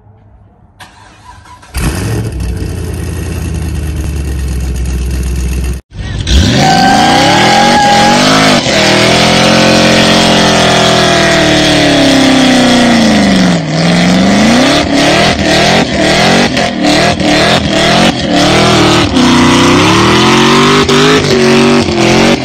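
Fifth-generation Chevrolet Camaro engine doing a burnout, held at high revs with the tyres spinning. The revs drop sharply about halfway and climb back, and the sound cuts in and out rapidly near the end. Before that, a few seconds of the engine running steadily at a lower pitch, which stops abruptly.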